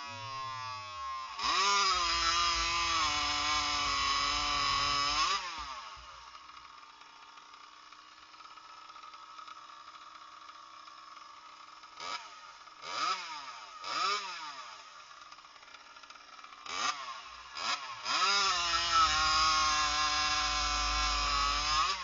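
Small two-stroke engine with a CPI racing expansion pipe, revved while standing: the revs fall at first, then it is held high for about four seconds and drops to a quiet idle. Later come three or four short throttle blips, then it is held high again for about four seconds before the throttle is let off.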